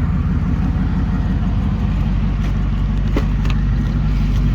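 Twin-turbo 6.0-litre LS V8 in a Jeep Grand Cherokee SRT8 idling steadily, with a couple of faint clicks a little past three seconds in.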